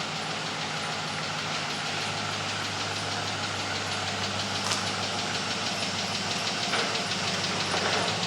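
An engine running steadily at idle with a fast, even clatter.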